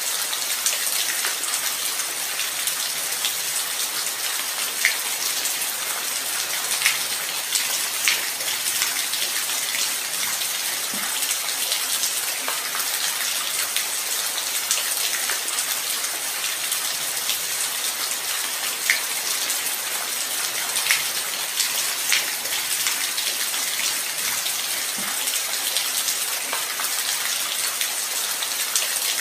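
Light rain falling steadily, an even hiss with scattered individual drops ticking sharply now and then.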